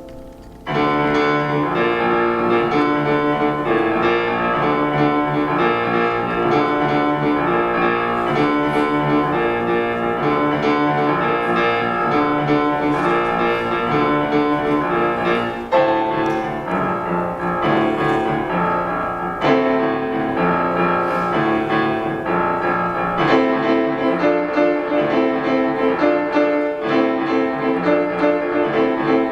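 Solo grand piano playing a fast, dense passage; after a quieter stretch the playing comes in loud and full just under a second in and keeps up throughout.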